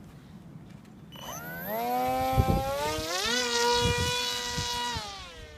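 Electric motor and propeller of a Tuffwing 32 foam flying wing spinning up to a high whine about a second in, stepping up in pitch again, holding steady, then winding down near the end. A few low thumps of wind on the microphone sit under it.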